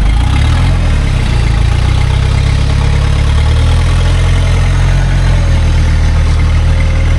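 Toyota Hilux LN106's 3.0 turbo diesel engine running steadily with a deep, even rumble. A faint whine joins it about halfway through.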